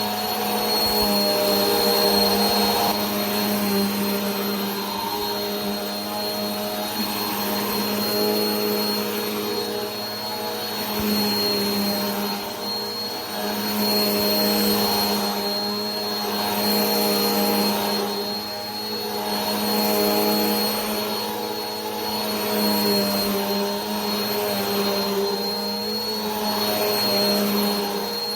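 Vacuum cleaner running continuously: a steady motor hum with a thin high whine over a rush of air. The loudness swells and fades about every two to three seconds.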